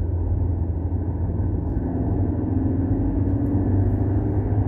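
VW Golf 6 TSI running: a steady low engine and road rumble, with a faint engine tone rising slowly through the middle.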